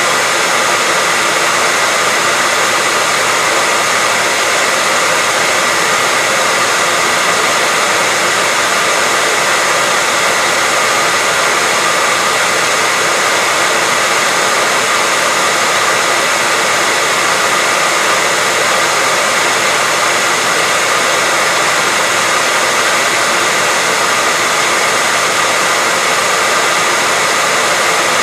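Hair dryer running steadily: an even rush of blown air with a faint steady whine, unchanging throughout.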